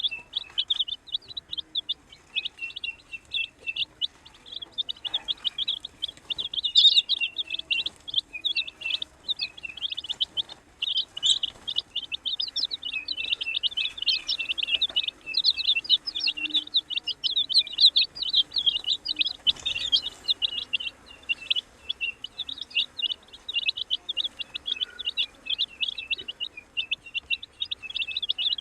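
A group of baby chicks peeping nonstop, with many short, high chirps overlapping one another.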